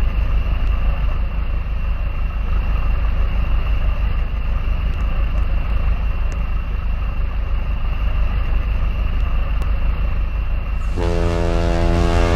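Boat engine running steadily. Near the end a long horn blast starts and is held.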